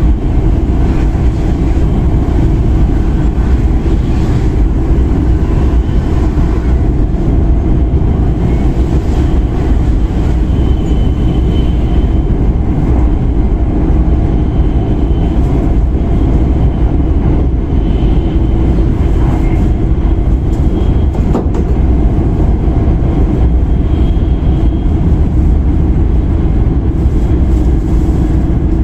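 E5 series Shinkansen running along the line, heard inside the passenger cabin: a loud, steady rumble of wheels and running gear with a faint steady hum over it.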